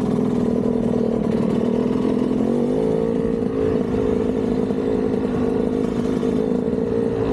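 KTM 200 two-stroke single-cylinder dirt bike engine running at steady revs, picking up in pitch about two and a half seconds in and holding there.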